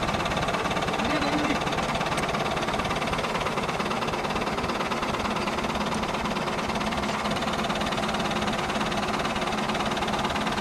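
Caterpillar motor grader's diesel engine running steadily.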